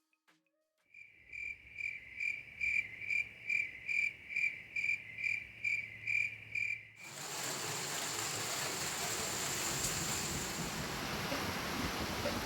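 An insect, likely a cricket, chirping in an even rhythm of about two and a half chirps a second. About seven seconds in it cuts abruptly to the steady hiss of heavy rain.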